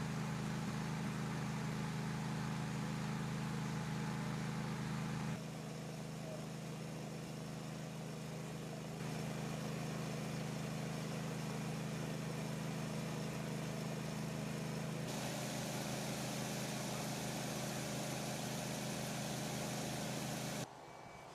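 Steady low engine hum, like a vehicle or machine idling, over background noise. It changes level abruptly several times.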